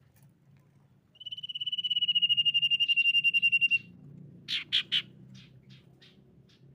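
Common iora (sirtu) calling: a long, rapidly trilled whistle that falls slightly in pitch over about two and a half seconds. Then come three sharp loud notes and a few fainter ticking notes.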